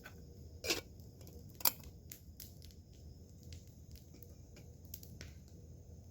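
Two sharp clicks about a second apart, the second louder, then faint scattered ticks over a low steady background noise.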